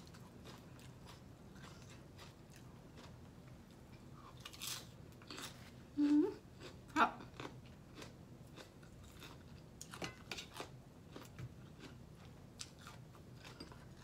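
Close-mic chewing and crunching of crisp shredded green papaya salad, with a string of short crunches. A brief hum-like vocal sound comes from the eater about six seconds in.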